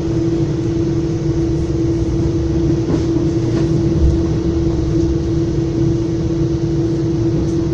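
Inside a moving Metra commuter train car: the train runs steadily along the track with a low rumble and a constant hum.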